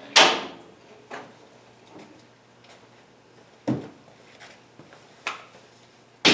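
Tools and metal parts clanking and knocking as they are handled: a loud clank with a short ring right at the start, a few lighter knocks, and another loud clank at the very end.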